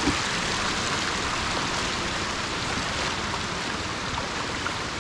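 Floodwater running over a road: a steady, even rush of water.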